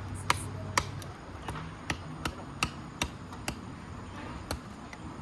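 Batoning firewood: the spine of a knife struck again and again with a wooden baton to drive the blade through the wood, about ten sharp knocks at roughly two to three a second, spacing out near the end.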